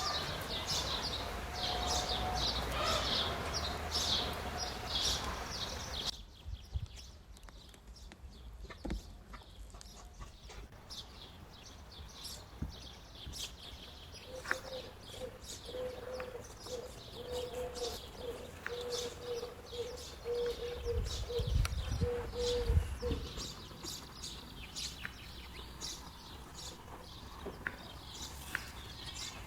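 Small birds chirping rapidly and continuously, then after an abrupt drop a quieter stretch of scattered chirps, with a long run of evenly repeated mid-pitched calls in the middle and a few low thuds near them.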